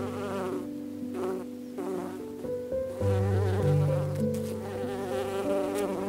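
A bee buzzing, its hum wavering in pitch and coming and going in short spells, over soft piano music with slow sustained notes.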